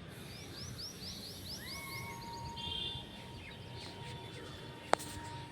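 Birds calling outdoors: a quick run of short, high, rising chirps, then scattered chirps over a long steady tone, with one sharp click near the end.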